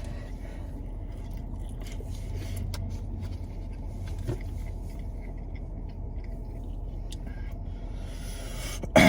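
Low steady rumble of a car's idling engine heard inside the cabin, with a few faint small clicks and chewing noises over it.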